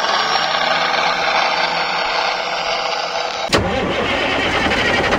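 A small motor running steadily. About three and a half seconds in there is a click, and the running sound turns fuller and lower.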